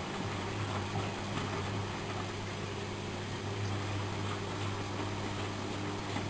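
Miele Professional WS 5105-C washing machine running: a steady low motor hum under an even wash of noise.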